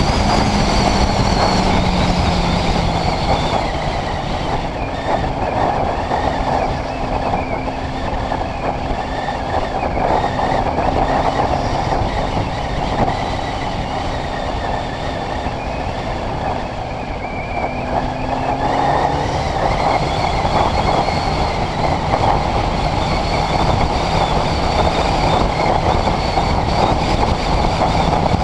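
Honda CBR600RR's inline-four engine running at steady cruising revs, heard through heavy wind rush on a bike-mounted GoPro's microphone. Its pitch drops to a lower note about two-thirds of the way through.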